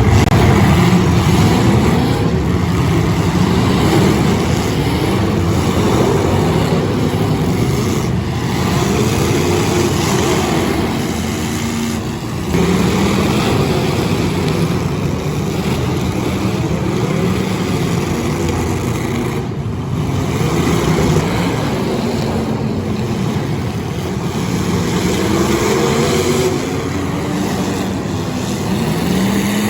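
Several demolition derby car engines running and revving together, their pitch rising and falling over each other. The sound jumps abruptly twice, about twelve and twenty seconds in.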